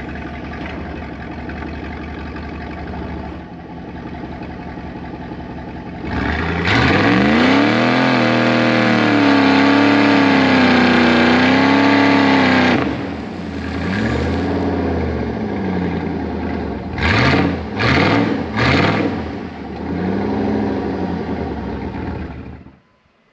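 Mud truck's engine idling, then revved hard for about six seconds with its pitch surging up and down as the stuck truck tries to pull free, followed by several shorter revs including three quick sharp blips. The engine cuts off suddenly near the end.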